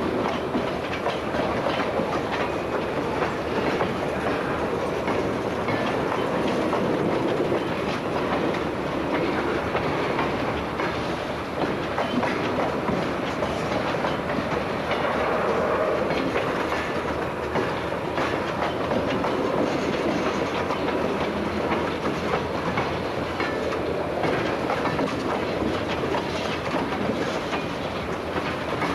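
Freight train rolling by, its wheels clicking steadily over the rail joints with a continuous rumble of the cars.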